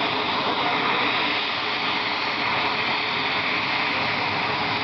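Mi-17 helicopter's twin turboshaft engines and main rotor running steadily at close range, a loud, even rushing noise.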